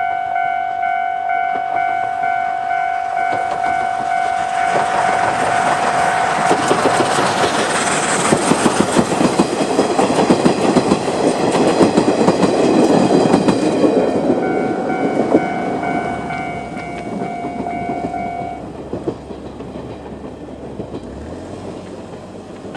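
Japanese level-crossing alarm ringing in a steady repeating pattern while a train of steam locomotive C12 66 and 50-series coaches passes. The train's wheels clatter over the rail joints, loudest in the middle. The alarm cuts off near the end, once the train has cleared the crossing.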